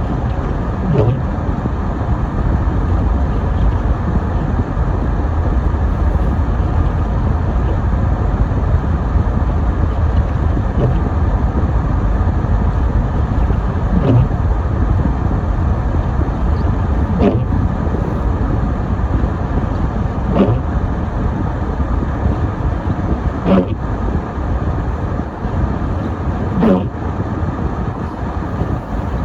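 A car driving on a snowy road, with steady road and engine noise. About every three seconds there is a short knock with a brief falling squeak, most likely the windshield wipers sweeping.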